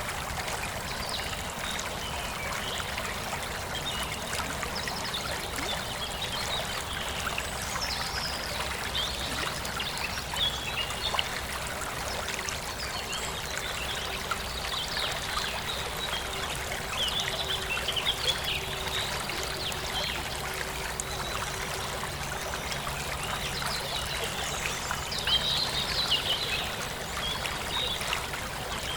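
Forest stream flowing steadily, with small birds chirping now and then, busiest about halfway through and again near the end.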